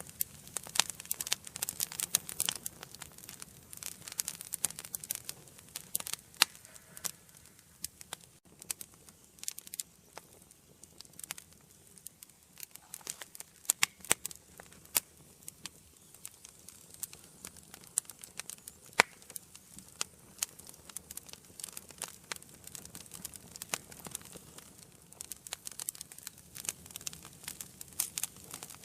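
Wood fire burning in a fireplace, crackling and popping in irregular sharp snaps over a soft low hiss of the flames.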